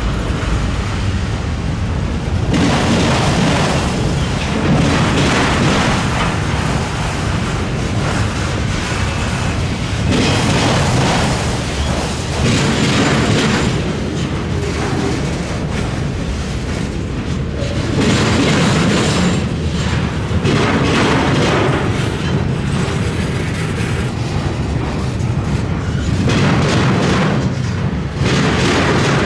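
Freight train rolling past at close range: a loud, continuous rumble of wagons on the rails that swells and eases every few seconds.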